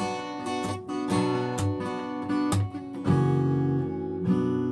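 Acoustic guitar strumming chords in the closing bars of a trot song after the last sung line, with a chord left ringing about three seconds in.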